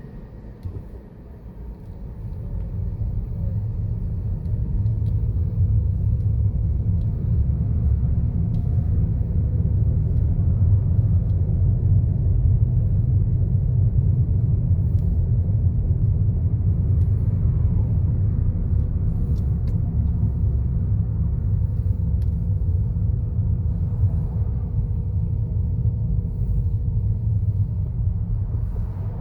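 Low, steady rumble of a car being driven, heard from inside: road and engine noise that builds over the first few seconds and then holds steady.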